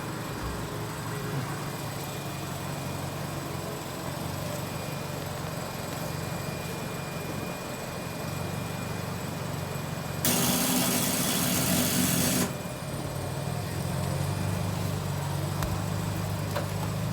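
The starter of a 1969 Ford Mustang Mach 1 is energised once for about two seconds, about ten seconds in, giving a loud whirr that starts and cuts off abruptly. The engine does not start. A steady low hum runs underneath.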